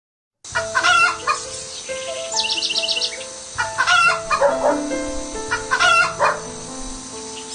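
Rooster crowing several times with hens clucking, over background music of held notes that change pitch every so often.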